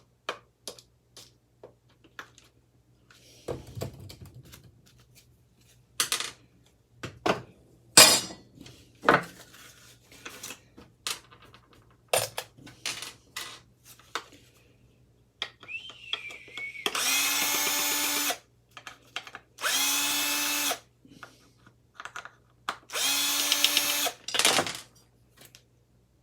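A small power tool runs in three short bursts of about a second each, during work on a ceiling fan's metal parts. Many short clinks and knocks of metal parts being handled come between the bursts.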